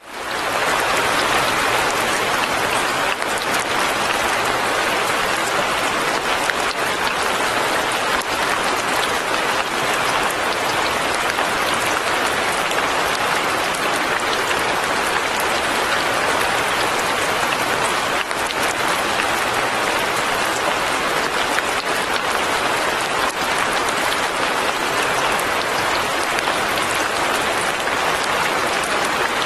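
Steady light rain, a dense even hiss of falling drops that fades in at the very start and holds unchanged.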